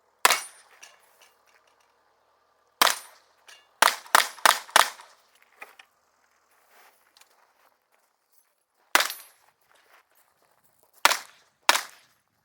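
Revolver shots fired in a practical shooting stage: about ten sharp reports at uneven spacing, with a quick string of four or five around four seconds in and single shots with pauses between them.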